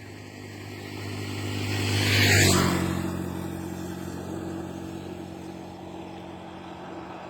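A motor vehicle passing by: its engine and road noise grow louder, peak a little over two seconds in, then fade as the engine note carries on more faintly.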